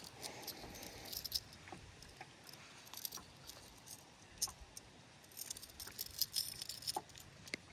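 Faint metallic clicking and jingling of a fishing lure's hooks and split rings as the hook is worked free from a bass's mouth. The clinks come scattered, with a busier cluster about two-thirds of the way through.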